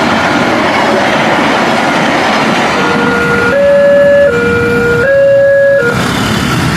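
A passing train rumbles throughout. About three seconds in, a two-note horn sounds, switching between a lower and a higher note four times before stopping shortly before the end.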